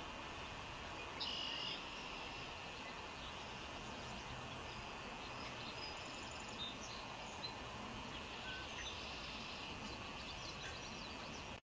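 Outdoor background hiss with a few short, faint bird chirps over it, the loudest about a second in.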